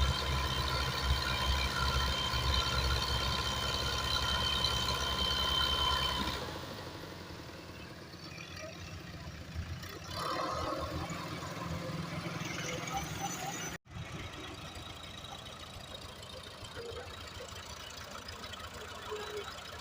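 Tractor engine running steadily close by for about six seconds, then a sudden cut to a quieter scene with an engine further off and faint voices.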